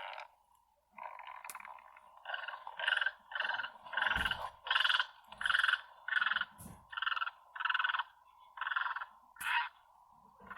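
An animal giving a regular series of about a dozen short calls, roughly two a second, over a steady background drone.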